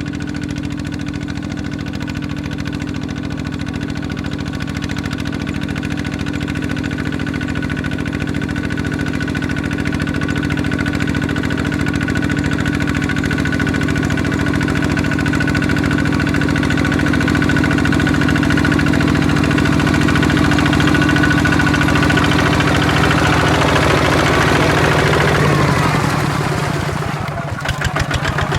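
Kubota ZT155 single-cylinder diesel engine of a walking tractor running steadily. Near the end it slows to a lower speed, with the separate firing strokes clearly heard.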